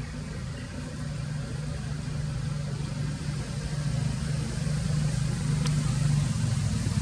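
A motor engine running steadily with a low hum, growing gradually louder, with a single sharp click near the end.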